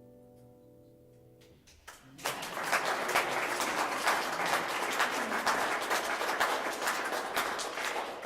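The last held chord of a song dies away, then about two seconds in an audience breaks into applause that continues.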